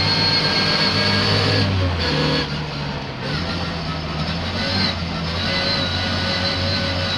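Racing car engine running at steady revs, dropping away briefly about two seconds in, then pulling steadily again at a new pitch.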